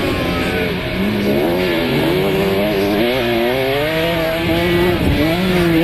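Two-stroke KTM 65 motocross bike engine revving hard, its pitch climbing and dropping several times as the rider works the throttle.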